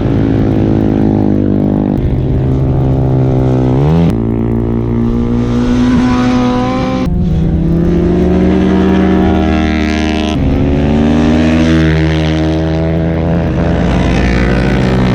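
Superbike engines running on a race track, the pitch rising and falling with the throttle and climbing steeply just before a sudden change about four seconds in. The sound changes abruptly again about seven and ten seconds in.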